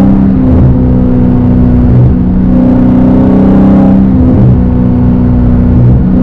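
Straight-piped Dodge Hellcat's supercharged 6.2-litre V8 exhaust running loud at a fairly steady engine speed, with slight dips in pitch now and then.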